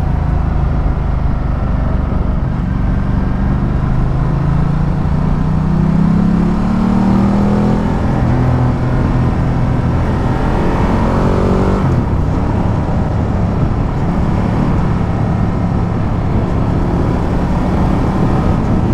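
Ducati Multistrada 1200's L-twin engine pulling as the motorcycle accelerates, its pitch rising over several seconds. The pitch drops sharply about twelve seconds in, then holds steady.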